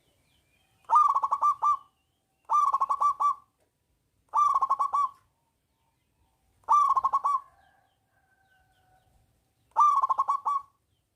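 Zebra dove (perkutut) cooing: five phrases, each about a second long and made of a quick run of staccato coo notes, separated by pauses of one to three seconds.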